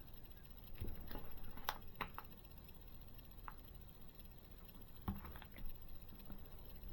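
Light clicks, taps and rustling of small model-kit parts being handled, in a cluster about a second in and again about five seconds in.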